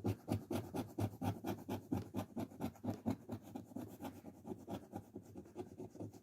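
Scratching off a lottery scratch ticket: a coin or scraper rubbing rapidly back and forth over the card's latex coating, a fast run of short scraping strokes, several a second.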